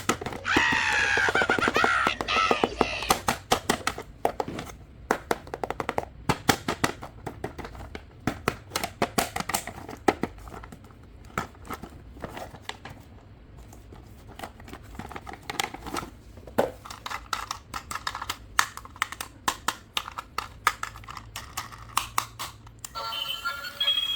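Plastic toy packaging and toy parts being handled, with irregular crinkling and clicking throughout. A wavering high pitched sound runs over the first couple of seconds.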